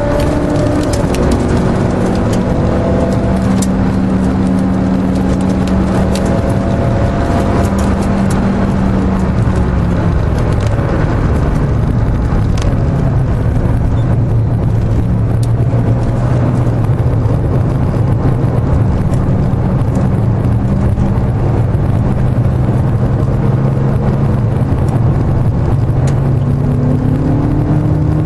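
Car engine and road noise heard from inside the cabin at track speed. The engine note drops in pitch about ten seconds in, holds steady, then starts to rise again near the end. Light clicks and rattles come through in the first half.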